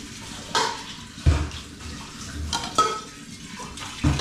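Water splashing and sloshing in the kitchen, with about five sharp clatters of pots and dishes spread through it.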